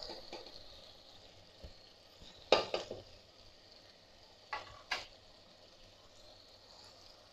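Tomato, onion and spice masala frying in oil in a pan, a faint steady sizzle. Sharp clinks of kitchenware against the pan come twice, about two and a half seconds in and again around five seconds.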